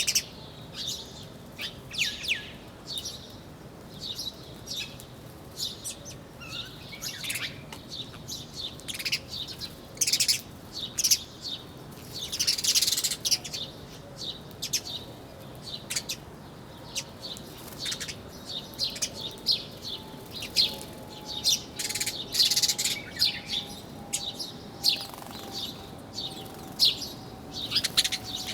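A flock of small birds chirping busily, short high chirps overlapping one after another with hardly a pause.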